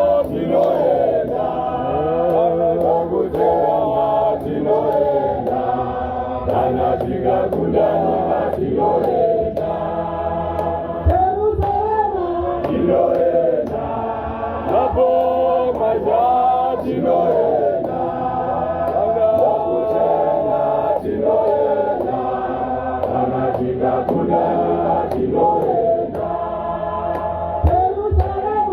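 Choir of men's and women's voices singing a hymn together, chant-like and continuous.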